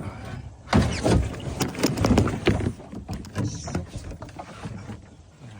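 A person scrambling into a kayak at the water's edge: a quick run of knocks, bumps and scrapes against the kayak's hull, starting about a second in, then thinning out and fading.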